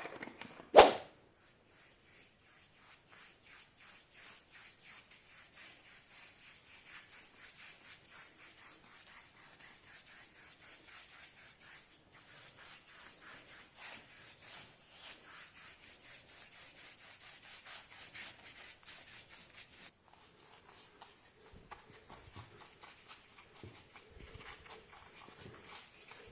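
A sharp whoosh about a second in, then faint, steady rubbing strokes, about two a second, like abrasive being worked by hand over metal.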